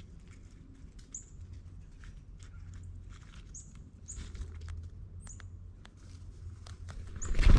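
Scattered small taps and clicks of animals feeding at a ground feeder, with several short high chirps. Near the end comes a loud, brief rushing burst.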